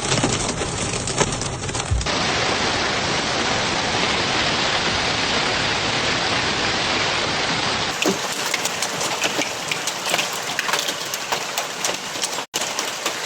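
Heavy rain pouring down, a steady hiss. After a cut about eight seconds in, many sharp taps of drops striking a hard surface sound over the rain. The sound drops out briefly near the end.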